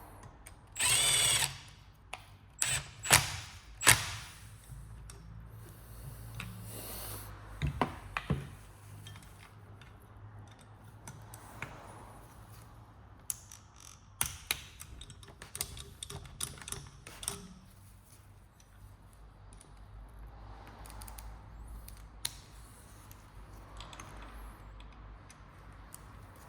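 A short burst of a power tool about a second in, followed by sharp metal knocks and scattered clicks of oil pump parts and bolts being handled during reassembly.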